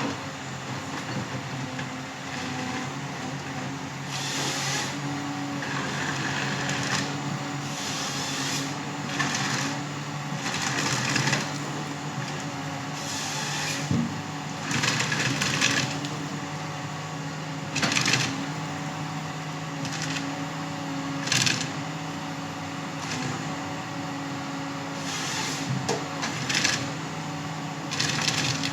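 A forestry harvester's engine runs steadily throughout, with about a dozen short, irregular bursts of louder noise as its head works the timber, wood cracking and crushing.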